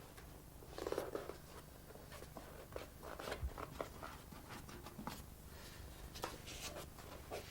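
Soft rustling and scratchy strokes of a paste brush and paper being worked on a drying board, with a few small taps and a louder rustle about a second in.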